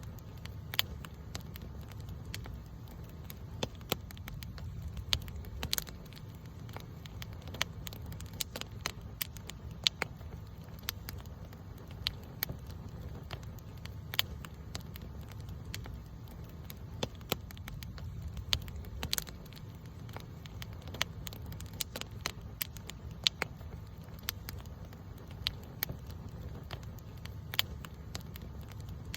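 Wood campfire crackling: sharp irregular pops and snaps several times a second over a steady low rumble of burning.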